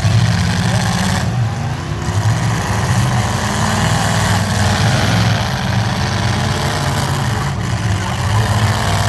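Truck engines running steadily at idle, a low, even rumble.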